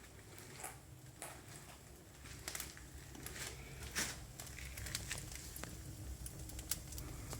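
Damp firewood catching in a fireplace firebox, crackling with irregular sharp pops and snaps that grow more frequent, over a low rumble that slowly gets louder.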